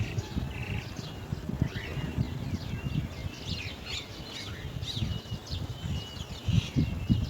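Chestnut-tailed starling chick giving short, high chirps again and again, several a second, over a low irregular rumble and thumps.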